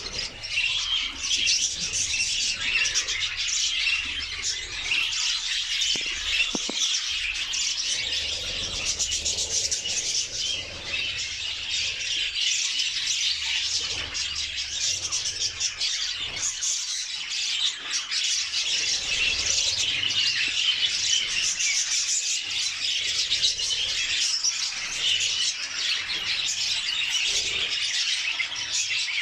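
Budgerigars chattering: a steady, dense stream of chirps, warbles and squawks.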